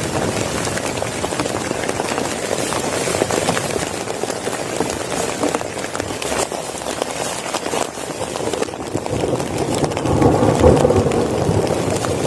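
Heavy rain pouring down, dense drops drumming without a break, briefly louder near the end.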